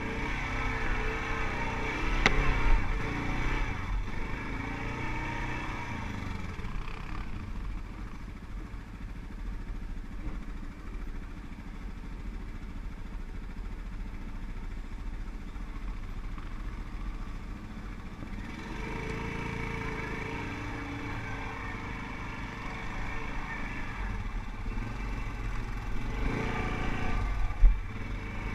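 ATV engines running and revving, rising and falling in pitch, loudest at the start and again in the second half, with a couple of sharp knocks.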